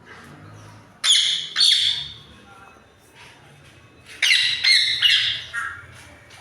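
A parrot squawking: two loud, harsh squawks about a second in, then a quick run of several more around four seconds in.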